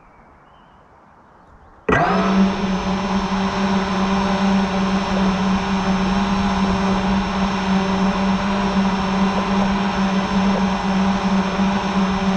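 FPV quadcopter's brushless motors spinning up suddenly about two seconds in, then whirring loudly at a steady, unchanging pitch.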